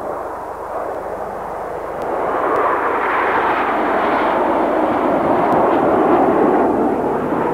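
Seven BAE Hawk jets passing in close formation, their single Adour turbofans making a broad jet rush that swells from about two seconds in and is loudest near the end.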